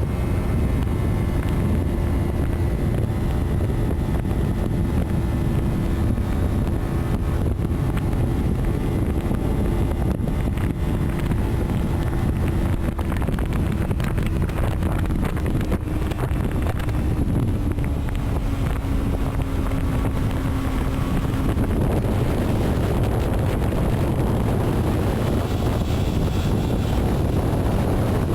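Steady road and wind noise of a moving vehicle, a low rumble with a faint engine tone that sinks slowly in pitch and fades out about three-quarters of the way through.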